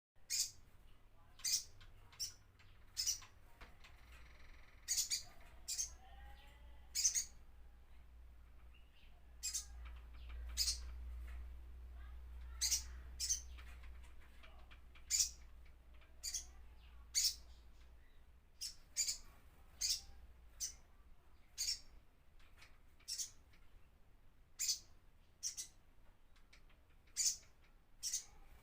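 Wild bird known in Indonesia as the sogon, calling over and over with short, sharp, high-pitched notes, single or in quick pairs, every second or two.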